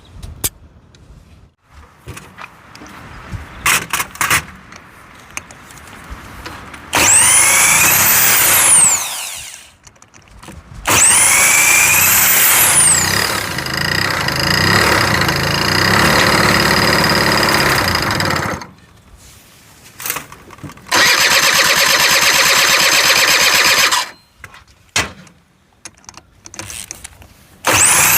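Two-stroke scooter engine being cranked over in repeated start attempts, each opening with a short whirring spin-up that rises and falls in pitch. Twice the engine catches and runs for a few seconds, once for about seven seconds and once for about three, before stopping, as the engine first comes back to life.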